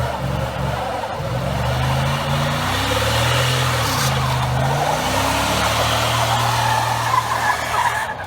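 A motor vehicle's engine running, its pitch rising and falling as it revs, over a steady rushing noise; the sound cuts off suddenly near the end.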